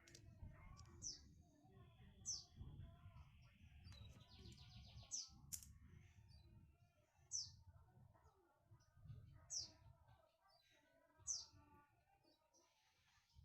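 Faint bird chirping: short, sharp, falling high chirps repeated about every two seconds, with a brief buzzy trill about five seconds in, over a low rumbling background.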